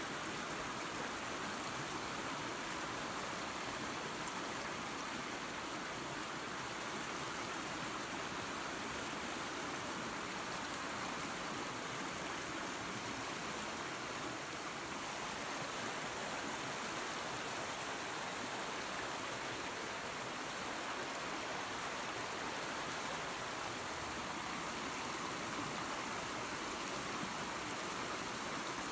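Small waterfall spilling into a creek, with water rushing and splashing over rocks in a steady, even hiss.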